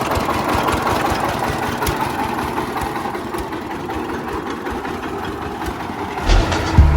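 Small generator engine running steadily with a rapid knocking beat, driving a sugarcane juice crusher. Background music with a deep bass comes in near the end.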